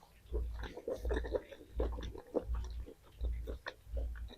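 A person chewing food close to the microphone, with wet mouth clicks and smacks, in a steady rhythm of a little over one chew a second.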